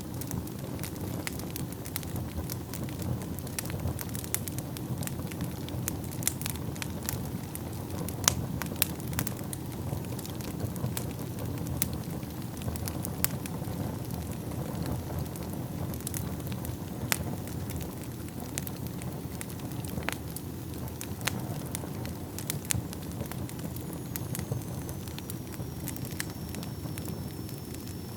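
Wood burning in a fireplace: a steady low rush of flames with irregular sharp crackles and pops throughout. A faint high whistle, falling slightly in pitch, comes in near the end.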